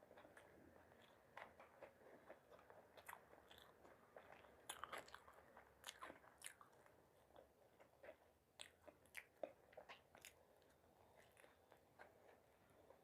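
Close-up chewing and biting of food, with irregular wet clicks and crunchy crackles from the mouth, busiest in the middle of the stretch.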